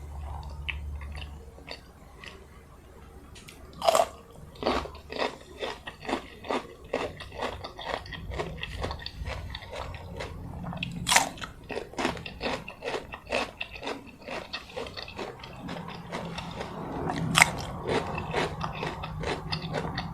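Close-miked mukbang eating sounds: a person biting and chewing crunchy food in quick, wet clicks and crunches, with three louder crunching bites spread through the stretch.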